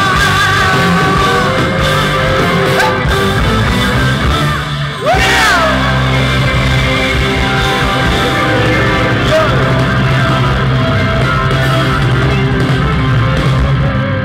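Rock band music with singing, loud and full. About five seconds in the music dips briefly, a note slides up and back down, and the full band with heavy bass comes back in.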